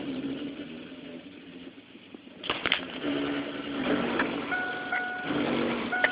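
Music playing through a car audio system: an Alpine iDA-X100 head unit, a Kenwood Excelon mono amplifier and two JL Audio 12-inch subwoofers. It dips quieter, then comes back louder with a sharp click about two and a half seconds in.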